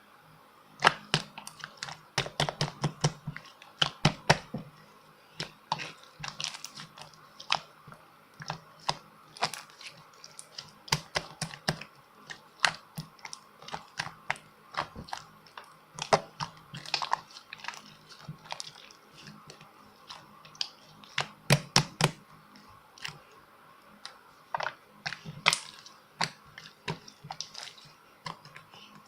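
Irregular sharp clicks and taps, often several a second in spells, with a few louder, duller knocks.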